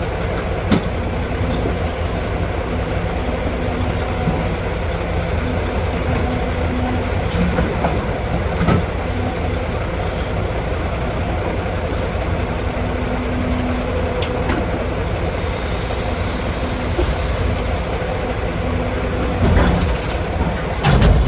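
Diesel engine of heavy earthmoving equipment running steadily under work, with a few short knocks and clanks.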